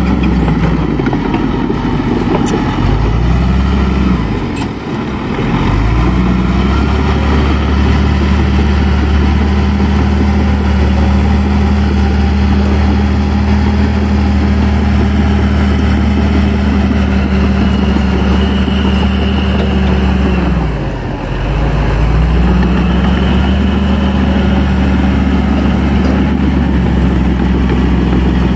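Kobelco excavator's diesel engine running steadily under work, its speed sagging briefly and picking back up twice, about four seconds in and again near twenty-one seconds in.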